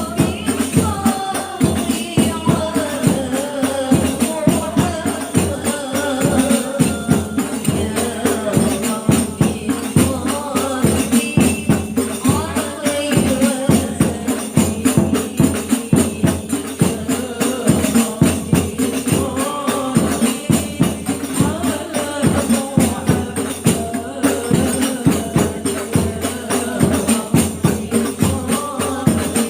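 A group of women singing sholawat together over hadroh frame drums (rebana) with jingles, beating a dense, steady rhythm.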